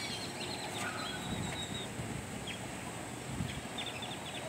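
Small birds chirping: short, quick calls repeated many times over a steady outdoor background hum.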